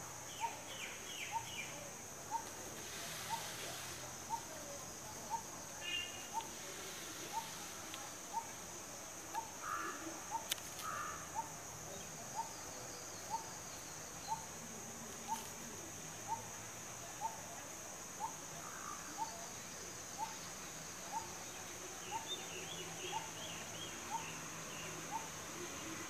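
A bird repeating one short call note about once a second, steady and regular, over a constant high-pitched insect drone, with a few brief twitters from other birds.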